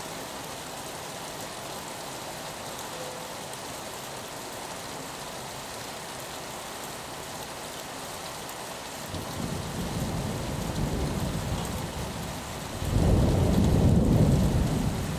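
Steady rain on a window. About nine seconds in, a low roll of thunder begins, and it swells much louder near the end.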